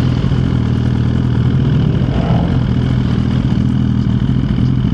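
Suzuki GSX-R1000 sportbike's inline-four engine running at a steady engine speed.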